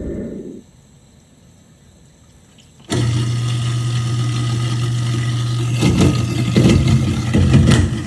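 InSinkErator garbage disposal motor winding down after being switched off, then a couple of seconds of quiet before it starts again abruptly with a steady hum. In the last couple of seconds irregular clattering comes through as food scraps are ground up.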